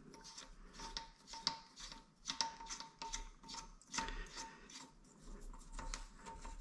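Bemis toilet seat's clip-on hinge hardware being handled and fitted: scattered light clicks and scraping rubs.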